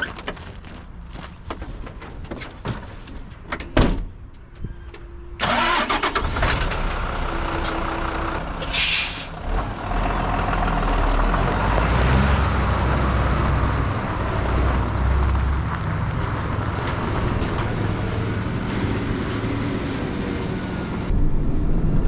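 Mitsubishi Fighter dump truck's 7.5-litre common-rail diesel starting about five seconds in and then running steadily. Before it come a few clicks and a knock, and there is a short hiss about nine seconds in.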